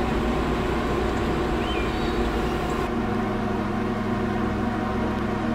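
Car engines idling: a steady low hum with several pitched lines. The sound changes abruptly about three seconds in to a different, steadier low idle.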